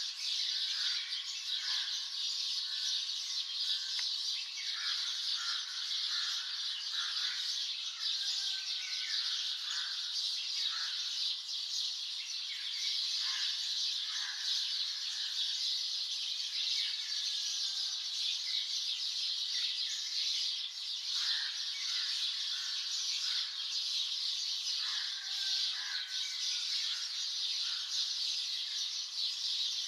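Many birds chirping and calling at once in a dawn chorus: a dense, unbroken high-pitched chatter, with many short, lower calls scattered through it.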